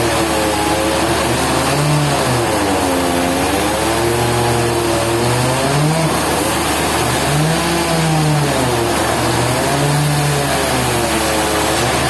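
Sawmill's engine running steadily, its pitch dipping and rising again smoothly about every two seconds.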